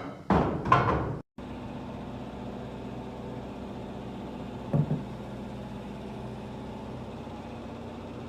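Loud irregular knocks and clatter for about the first second, then after an abrupt cut a machine running steadily with an even hum, and a short louder sound about five seconds in.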